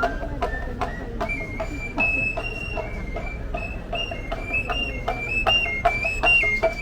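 A Papantla Flyers' caporal playing the ritual music on a small reed flute and a hand drum together: a high, stepping flute tune over an even drum beat of about two to three strokes a second.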